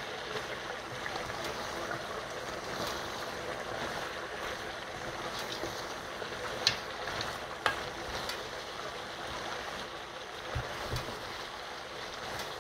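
Spinach and lamb sizzling steadily in a pot while being stirred with a wooden spoon. There are a couple of sharp clicks of the spoon against the pan, about seven and eight seconds in.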